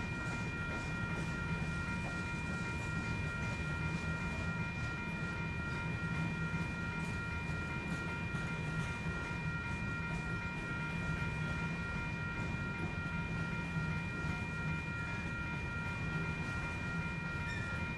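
Freight train of covered hopper cars rolling past at steady speed: a continuous low rumble with faint scattered wheel clicks, and a steady whine of several high tones that holds unchanged throughout.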